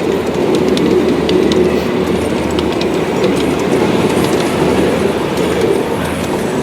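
A train running along the track: a steady rumble with light, irregular clicking from the wheels on the rails.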